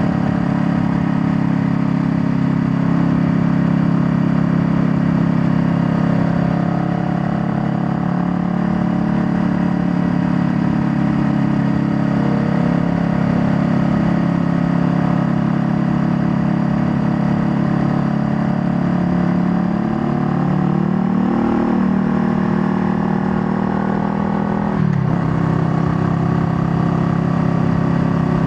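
Honda Rebel 500's parallel-twin engine running under way, its note holding fairly steady, then rising and falling around twenty seconds in. There is a sudden change in engine note about twenty-five seconds in.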